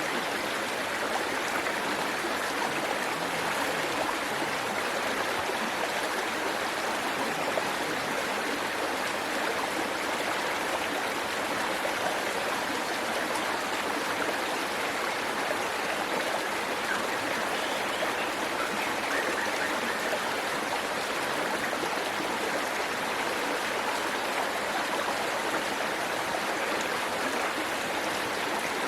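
Waterfall water rushing and splashing in a steady, even hiss, with no change in level.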